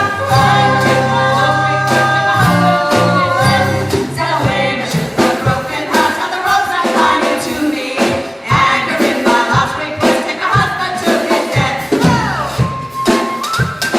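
Live band playing a song, with a bass line under held melody notes and steady drum hits.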